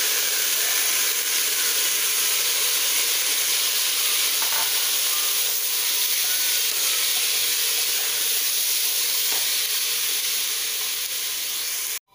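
Rice and lentils sizzling in hot oil in a pressure cooker as they are stirred and roasted with a wooden spatula: a steady hiss that cuts off suddenly near the end.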